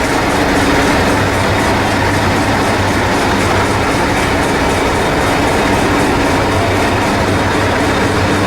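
Miniature railway train in motion: a steady rumble with a low hum and a regular light clatter of wheels over the rail joints.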